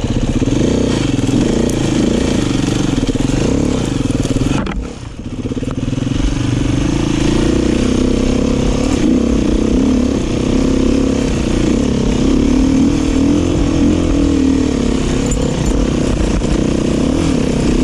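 Dirt bike engine running close by, its pitch rising and falling again and again as the throttle is worked on and off. The sound drops away briefly about five seconds in, then picks up again.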